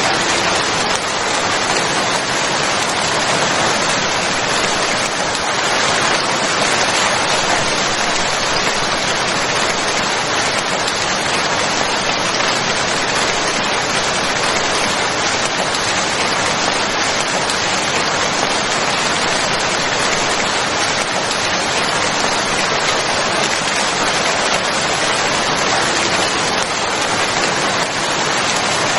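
Rain falling steadily: a dense, even hiss of rain with no pauses or changes.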